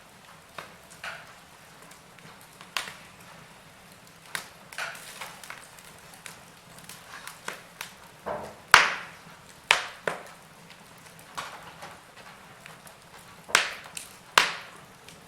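Wood fire in a fireplace crackling, with irregular sharp pops over a faint steady hiss; the loudest pops come about nine seconds in and twice near the end.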